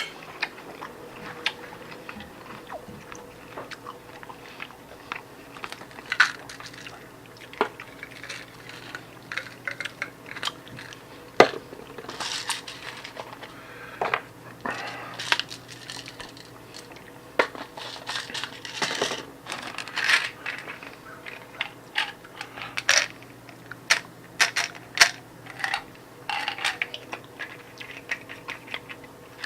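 Eating at a table: cutlery clinking and tapping on a plate in scattered, irregular sharp clicks.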